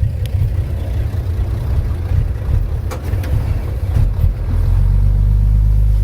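Komatsu D31P bulldozer's diesel engine running hard while pushing soil, a deep low rumble with a few faint clanks. It settles into a steady, louder drone near the end.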